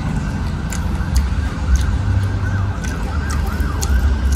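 Close-up eating sounds: sharp wet clicks of chewing over a steady low rumble. A wavering rise-and-fall wail, like a distant siren, comes in about two seconds in and lasts about a second.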